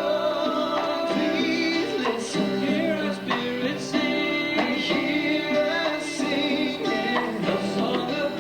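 Live worship song: a church band playing with voices singing along.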